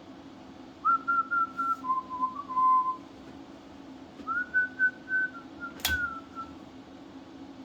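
A person whistling two short phrases of a tune, the first stepping down in pitch partway through, over a steady low hum. A single sharp click sounds near the end of the second phrase.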